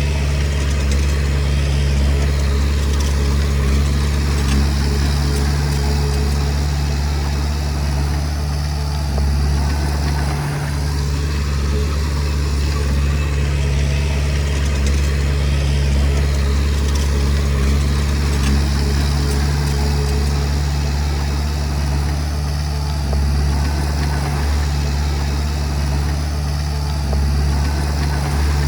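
Komatsu D20P bulldozer's diesel engine running at a steady speed, a loud, even low drone that holds without a break.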